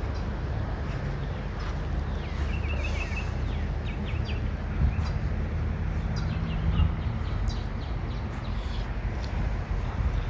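Outdoor ambience: a steady low rumble with scattered short bird chirps, a quick run of them about two and a half seconds in.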